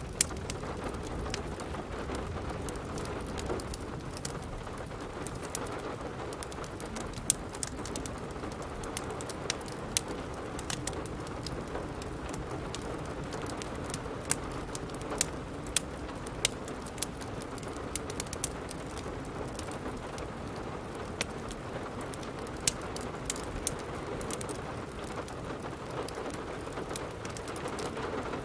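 Steady rain, with the scattered sharp pops and snaps of a crackling wood fire in a fireplace.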